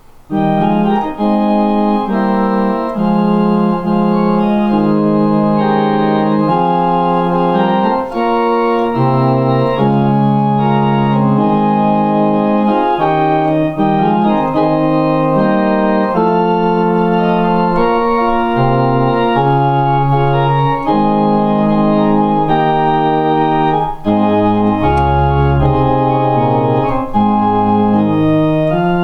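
Organ playing held chords over a moving bass line, starting abruptly at the beginning.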